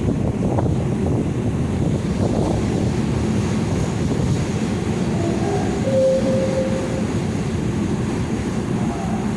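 Passenger train rumbling along the rails: a steady low running noise, with a brief faint tone about six seconds in.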